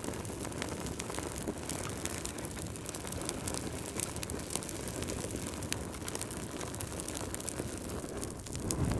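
Wood fire crackling, with many small sharp pops over a steady rush of flame, which swells louder and lower near the end.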